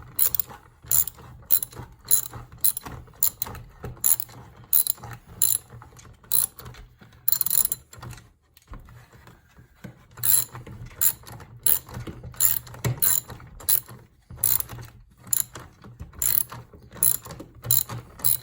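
Hand ratchet wrench clicking in quick back-strokes, about two a second, as bolts are run in, with a short pause about halfway.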